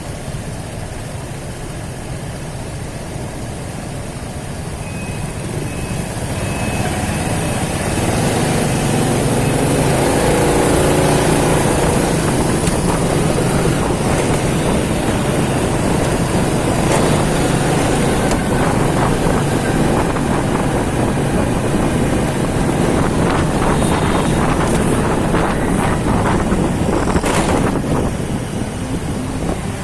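Motorcycle engine running while riding, mixed with wind and road noise; it grows louder about six to eight seconds in and dips briefly near the end.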